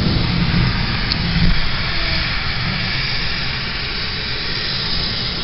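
Heavy rain hissing steadily on a car's windshield and roof, heard from inside the car, with a low rumble underneath that eases slowly.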